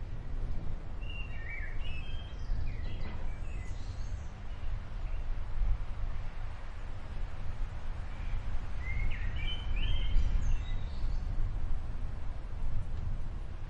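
Low, continuous rumbling of an approaching thunderstorm, with small birds chirping in two short spells, about one to three seconds in and again around nine to eleven seconds.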